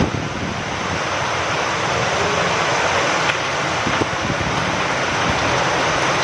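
Steady rain falling with wind, a dense, even hiss.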